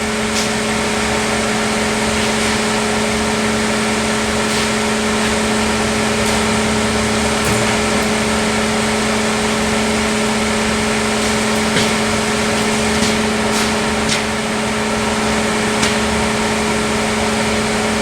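Steady hiss of compressed air through a paint spray gun over the steady hum of an air compressor motor, with a few faint clicks, while a coat of paint is sprayed.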